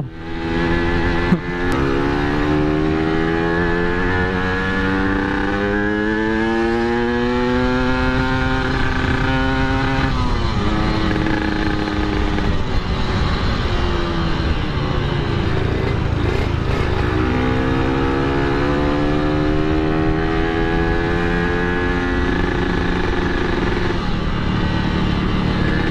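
Yamaha RX King two-stroke single-cylinder engine running through an aftermarket kolong-style exhaust while riding. Its pitch climbs slowly for about nine seconds as it accelerates, drops near ten seconds, then climbs again later.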